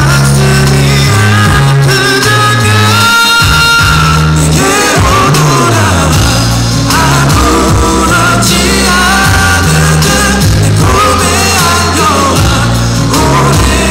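A pop-rock song played loud by a band, with a singer over a stepping bass line.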